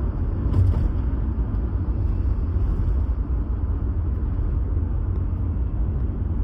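Steady low rumble of a car driving on the road, road and engine noise with no distinct events.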